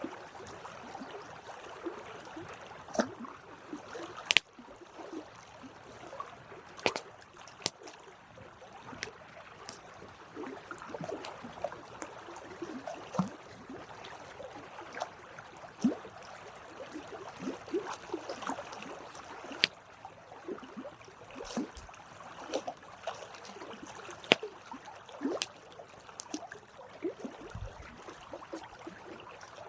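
Campfire crackling: irregular sharp pops and snaps over a soft steady hiss of burning wood.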